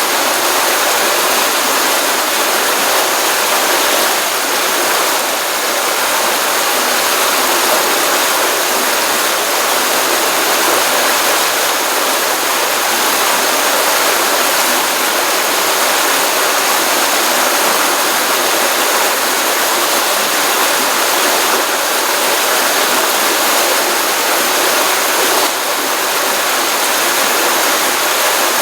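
Small stream of water running steadily from a pond, a continuous even rush with little low rumble.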